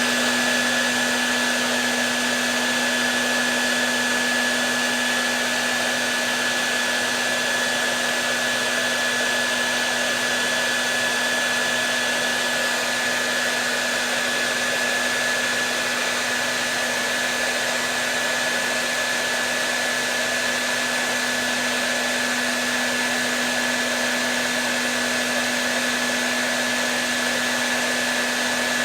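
Hair dryer running steadily: a continuous rush of blown air with a low motor hum and a thin high whine, both held at one pitch without change.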